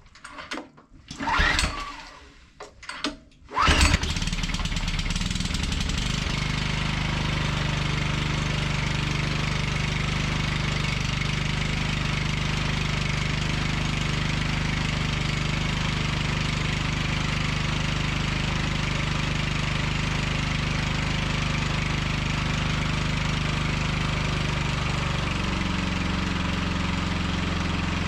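The 6.5 hp petrol engine of a Clarke Tiger 2900 pressure washer is pull-started from cold on full choke. The recoil cord is yanked several times in the first few seconds. The engine catches about four seconds in and runs steadily, its note shifting slightly near the end.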